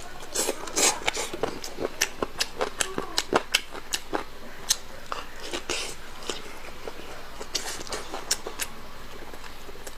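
Close-miked eating: biting and chewing on soy-braised pork bone and its crescent-shaped cartilage, with many sharp clicks and crunches that thin out about six seconds in.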